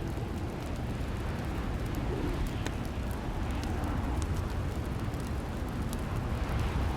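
Fireplace crackling: scattered sharp snaps and pops over a steady low rumble.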